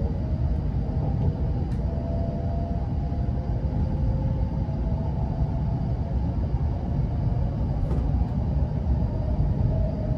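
Passenger train in motion: a steady low rumble with faint humming tones that waver slightly in pitch, and a couple of light clicks.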